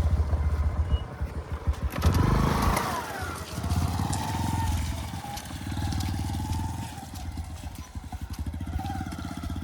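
A small engine running steadily, with a louder stretch about two seconds in.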